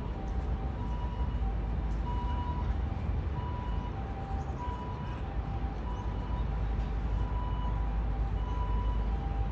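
Steady low rumble of outdoor urban background noise, with a repeating electronic two-tone signal: a higher and a slightly lower beep alternating about every half second.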